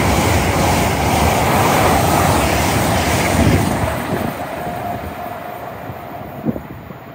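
A train running past on the line, its wheel and rail noise loud for about the first three seconds, then fading steadily as it draws away.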